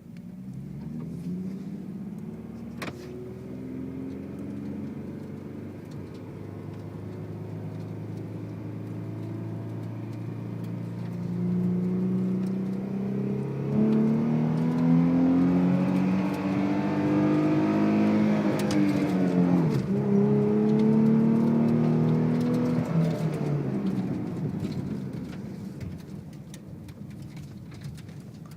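2011 Ford Mustang's 3.7-litre V6 through a Borla ATAK cat-back exhaust, accelerating with its exhaust note climbing in pitch and growing louder. The note drops sharply just before the twenty-second mark, as at a gear change, then climbs again before fading away.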